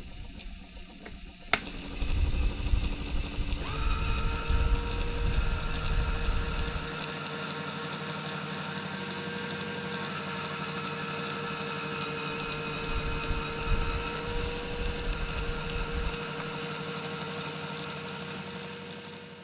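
LEGO electric motor driving a toy table fan: a click about a second and a half in, then a steady whirring whine that firms into an even tone about two seconds later, with low rumbles coming and going.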